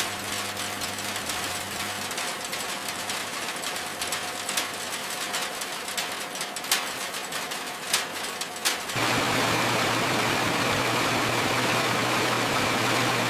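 Factory machinery running: a light mechanical clatter with a faint steady tone and a few sharp clicks, which changes abruptly about nine seconds in to a louder, steady machine hum with a low drone and a high whine.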